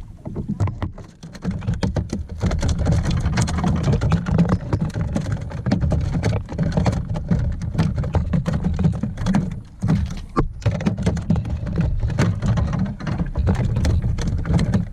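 Wind rumbling on the microphone, with dense, irregular crackling and clicking over it; the rumble dips briefly about ten seconds in.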